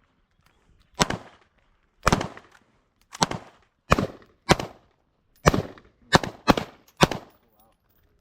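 Semi-automatic pistol fired nine times in a steady string, the shots about half a second to a second apart, each with a short ringing echo.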